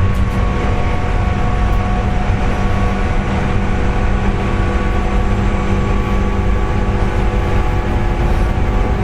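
A JR West 201 series electric train heard from inside the car while running at speed: a steady rumble of wheels on rail, with several steady whining tones above it. The whine is the 'jet sound' of traction motor bearings damaged by electrical erosion. The highest whining tone fades out after about two seconds.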